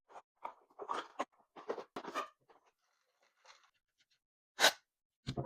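Kitchen knife blade being drawn across a sharpening stone in a series of short, irregular strokes, one louder stroke near the end.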